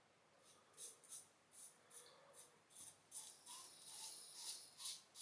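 Faint, short scratchy strokes of a RazoRock Game Changer 84P safety razor with a Blue Bird blade cutting a few days' beard growth through shaving lather, about three strokes a second.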